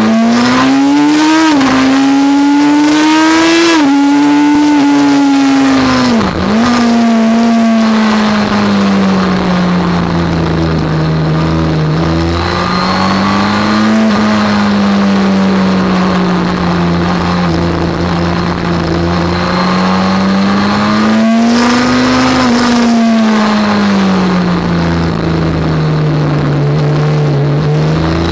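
Suzuki GSX-R 1000 L8's inline-four engine under hard riding on a race track. The revs climb and drop abruptly twice in the first four seconds as it shifts up through the gears, fall sharply about six seconds in, then rise and fall in long slow swells.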